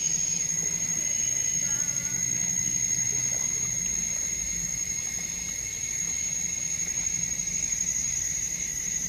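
Insects trilling in a steady chorus: a continuous shrill high trill with a second, lower steady note beneath it, pulsing quickly and never breaking.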